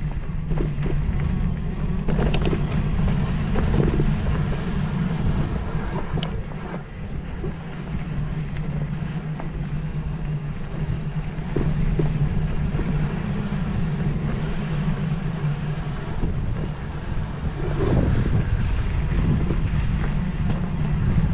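A motor running steadily with rumbling wind noise on the microphone and occasional knocks.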